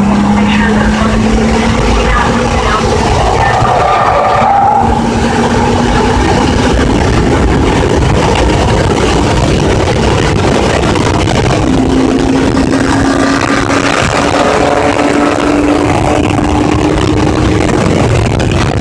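Car engine heard from inside the cabin at track speed, pulling steadily with its pitch slowly climbing, fading under the noise midway and then climbing again over the last seven seconds, with heavy road and wind noise throughout.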